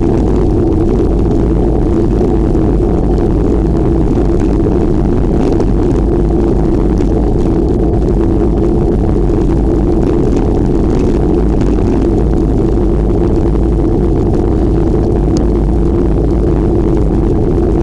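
Loud, steady wind noise on the microphone from riding a bicycle, mixed with a low rumble.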